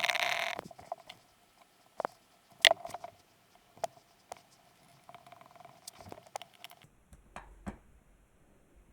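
Scattered light clicks and taps of a computer mouse and desk handling, irregular and spaced out, with a short hiss right at the start.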